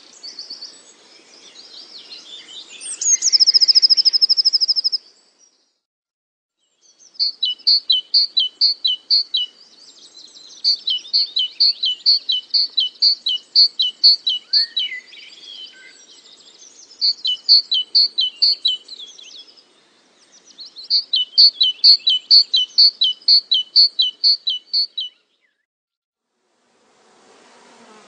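Bird song: short, clear high notes repeated about four times a second in phrases of two to four seconds, separated by brief pauses, with a high trill a few seconds in.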